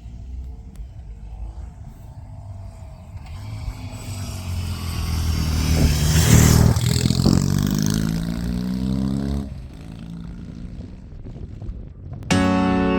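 BMW R18's boxer twin through modified fishtail exhaust pipes as the motorcycle rides past: the exhaust note builds as it approaches, is loudest about six seconds in, then falls in pitch as it pulls away, cut off abruptly near ten seconds in. Music begins just before the end.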